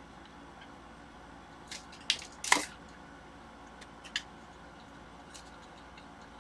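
A few light clicks and a short scrape from plastic pry tools working the glued screen loose from the edge of a Microsoft Surface tablet, spaced a second or so apart; the loudest comes about two and a half seconds in.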